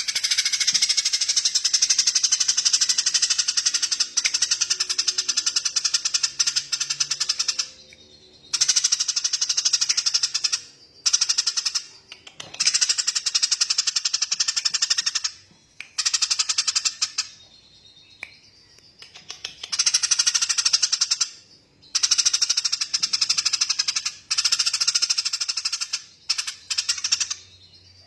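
Small songbird giving long, rapid, rattling high-pitched trills, each lasting a few seconds. They repeat with short breaks: a first long one of about seven seconds, then about eight shorter ones.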